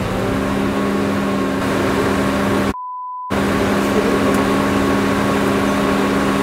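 SUV engine idling steadily. About three seconds in, the sound cuts out for half a second under a short censor bleep.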